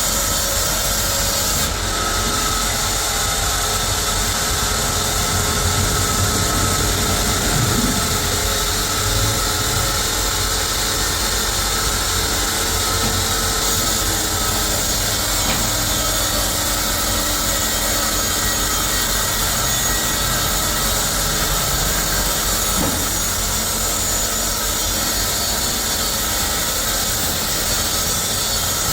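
Sawmill machinery running steadily, with a saw cutting through wood.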